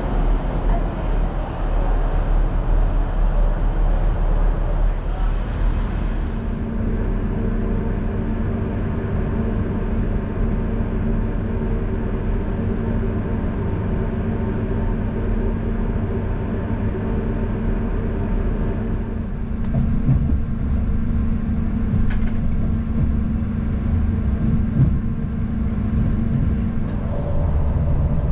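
Diesel passenger train running, a steady low rumble with an even engine drone, and a short hiss about five seconds in.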